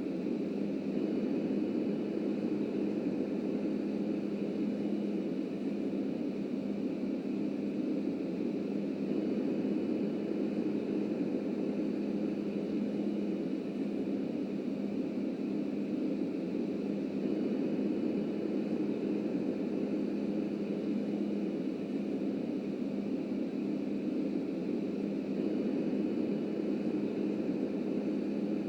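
Subway work train running along the tracks: a steady low rumble with a faint constant hum.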